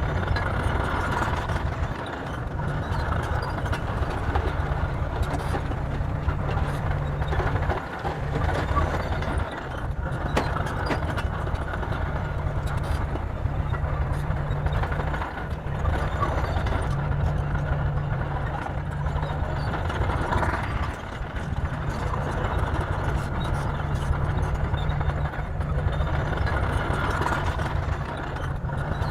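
Bulldozer's diesel engine running steadily with a deep pulsing rumble, with a few sharp knocks along the way.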